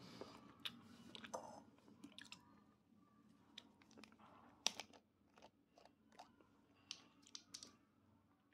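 Faint, scattered clicks and crunches from close-up chewing mixed with plastic drink bottles being handled. The sharpest click comes a little under five seconds in.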